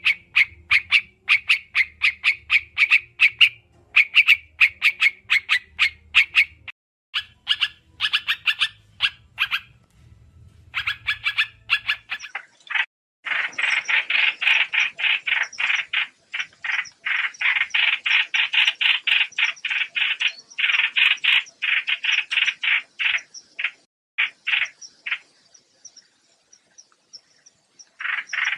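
Trao trảo bird lure call: rapid runs of sharp, short chip notes, several a second, in bursts separated by brief pauses, densest in the second half. A faint low hum lies under the first half.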